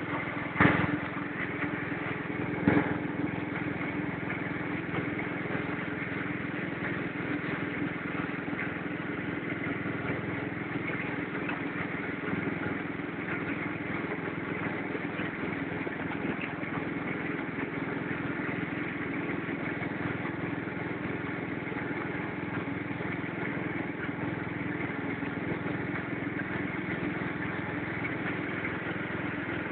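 Small garden tractor engine idling steadily, with two short knocks in the first three seconds.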